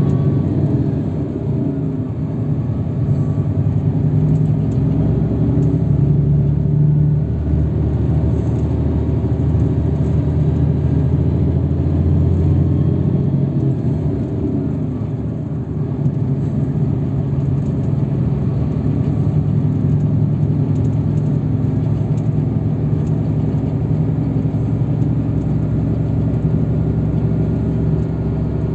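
Steady low engine and road rumble heard from inside a moving road vehicle. The deepest part of the drone eases a little about halfway through.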